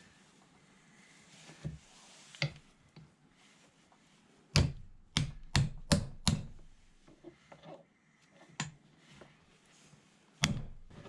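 Hammer blows on metal workshop parts: five sharp knocks about half a second apart midway, a few lighter knocks before them and one more loud knock near the end.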